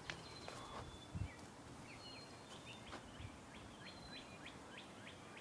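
Faint bird chirps: a quick series of short calls, several a second, starting about two seconds in, with a few thin whistles. A soft low thump sounds about a second in.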